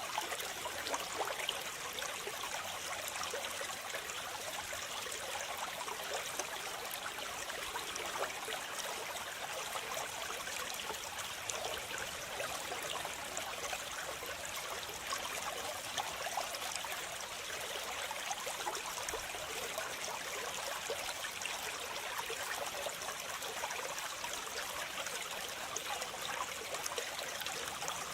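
Waterfall: water falling and splashing steadily, a constant hiss with fine splashy crackle.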